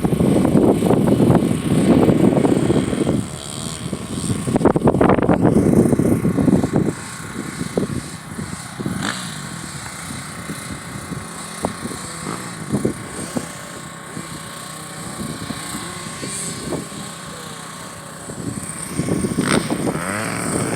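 Youth motocross bikes running on the track. They are loud for the first several seconds, then fainter, and grow louder again near the end.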